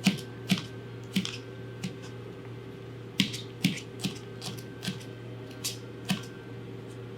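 Kitchen knife chopping garlic cloves on a cutting board: a dozen or so sharp chops, roughly two a second, with a short pause a couple of seconds in. A steady low hum runs underneath.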